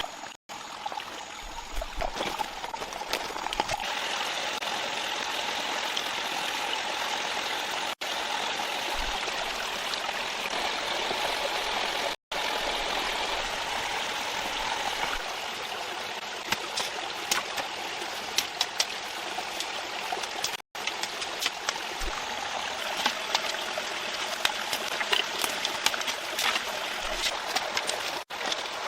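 Running water from a stream: a steady rush of water with scattered small ticks and splashes. It breaks off abruptly for an instant several times.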